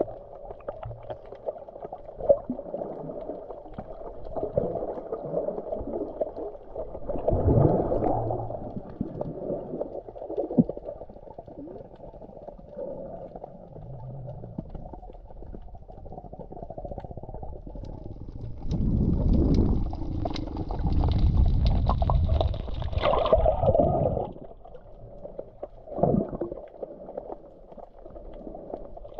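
Muffled sea water sloshing and gurgling, with a louder low rumbling surge of water about two-thirds of the way through.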